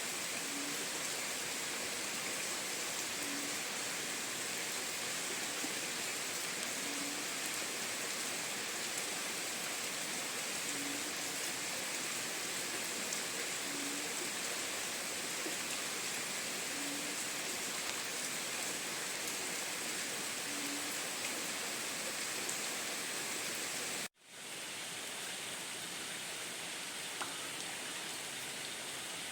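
Steady rain falling, an even hiss. About three quarters of the way through it cuts out for an instant and comes back slightly quieter.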